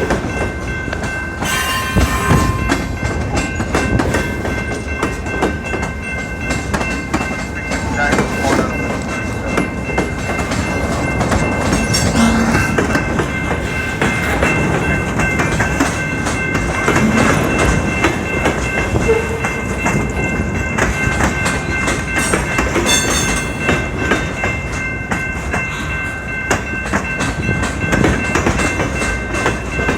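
Freight cars of a passing freight train rolling by, their wheels clattering over the rail joints in a steady stream of clicks and rumble. Steady high ringing tones sound throughout.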